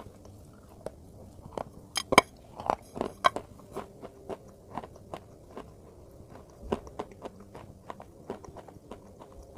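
Close-miked biting and chewing of a crumbly, chalk-like white chunk: sharp crunches and crackles, loudest in a run about two to three and a half seconds in and again near seven seconds, with softer chewing between.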